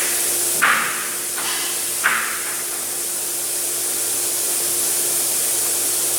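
EVAP smoke machine running: a steady hiss with a low hum. Two brief knocks come about a second and a half apart near the start.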